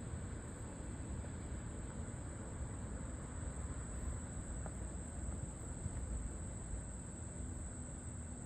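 Insects droning steadily in one unbroken high-pitched whine, over a low rumble.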